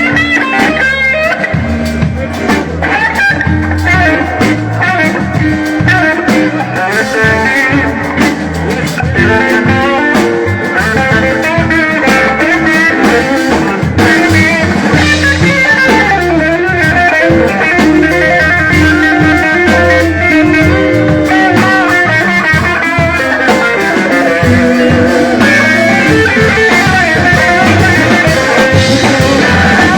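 Live blues band playing an instrumental stretch with no singing: electric guitar lead with bending notes over bass and drums.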